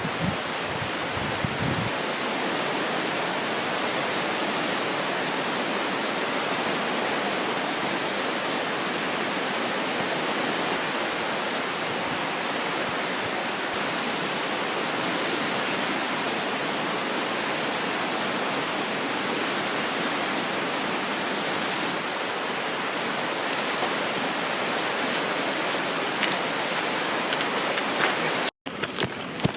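Steady rushing of a flowing river, an even wash of water noise with no change, broken briefly near the end.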